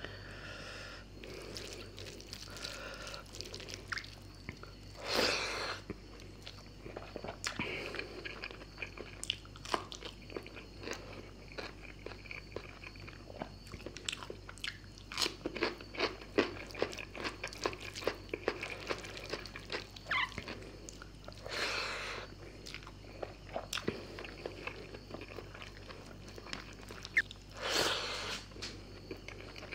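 Close-miked eating of fish curry and rice: wet chewing and many small mouth clicks and smacks, with a few louder noisy bursts of about a second at intervals.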